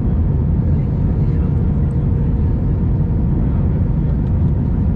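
Cabin noise inside an Airbus A319 on final approach: a steady low rumble of airflow and its CFM56 engines, with a faint steady tone over it.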